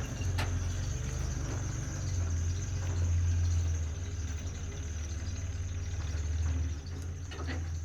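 A steady low hum like an idling engine, with a constant high-pitched insect trill, like crickets, over it.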